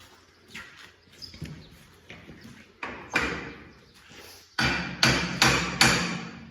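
Sharp knocks and clanks of heavy metal tractor parts being handled and fitted: a couple of hits about three seconds in, then four louder ones in quick succession near the end.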